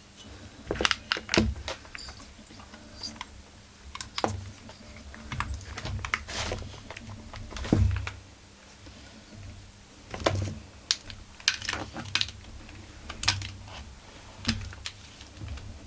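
Irregular light clicks and knocks of small metal engine parts and tools being handled while a chainsaw engine is taken apart, a dozen or more in no steady rhythm. The loudest knocks come about a second in and again near eight seconds in.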